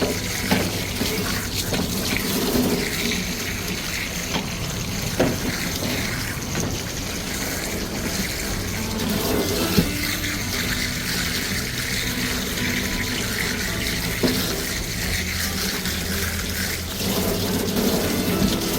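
Water running steadily during a dog's bath, with a few short sharp knocks.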